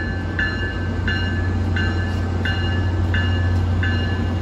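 Tri-Rail diesel locomotive running steadily with a low hum, while a bell rings at an even pace, a little more than once a second.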